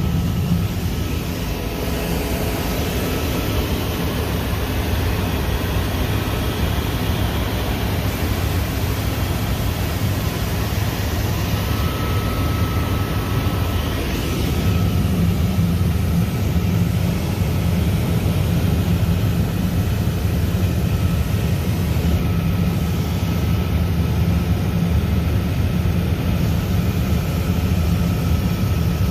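Helicopter in flight: a steady drone of rotor and engine that holds even throughout.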